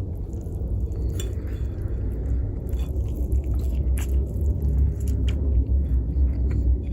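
Close-miked chewing of food, with many short mouth clicks over a steady low rumble that grows slightly louder.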